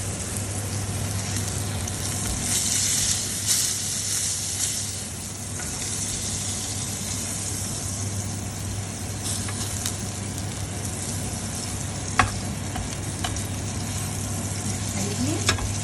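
Steak frying in hot oil in a pan, a steady sizzle that swells for a couple of seconds near the start, with a sharp click about twelve seconds in.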